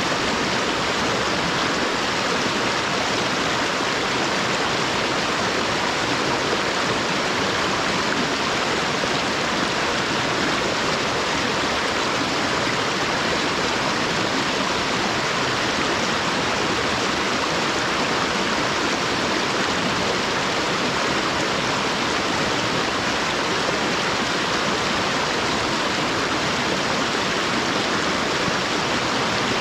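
Stream flowing, a steady, unbroken sound of running water.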